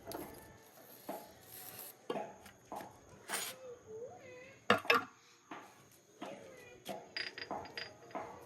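Irregular metallic clinks and knocks from hand tools and metal parts being handled, with the loudest pair close together just past the middle.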